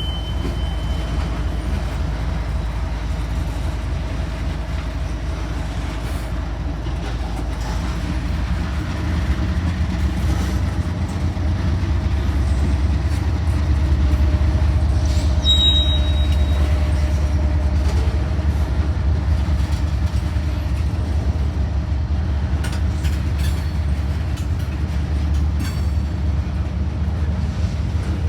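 A diesel-hauled train rolling past, a steady low rumble that grows somewhat louder partway through. About fifteen seconds in there is a brief high squeal.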